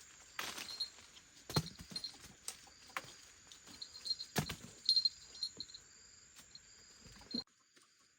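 Scattered clicks, taps and rustling, with an insect trilling steadily and chirping behind them; the sound drops away suddenly near the end.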